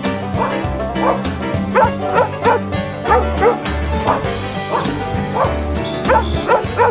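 Background music with a dog barking repeatedly over it, in short yelps about twice a second.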